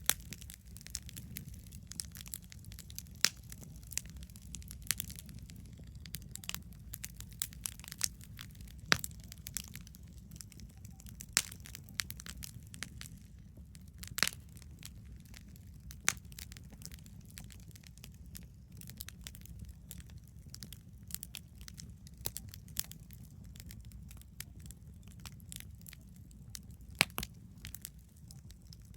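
Wood campfire crackling: irregular sharp pops and snaps, a few louder ones spread through, over a steady low rumble.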